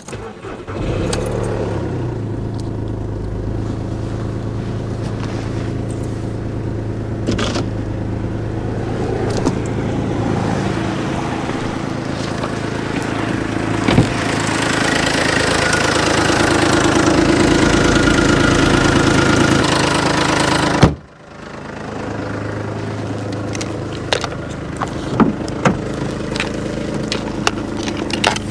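Truck's diesel engine starting about a second in, then idling steadily, a little louder through the second half. The sound cuts out abruptly about three-quarters through, then the idle comes back with scattered clicks.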